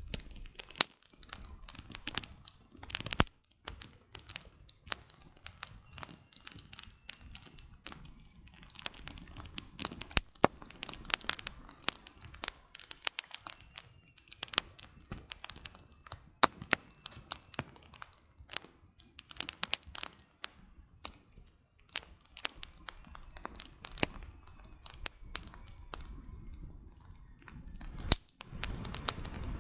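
Campfire of burning firewood crackling, with dense irregular snaps and pops, some louder than others, over a faint low hiss.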